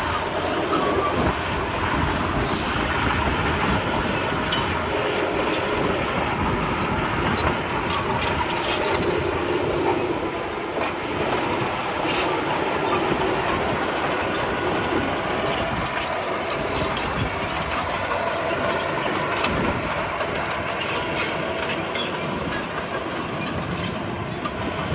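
Komatsu D31P crawler bulldozer working, its diesel engine running steadily while the steel tracks clank and clatter with many short knocks.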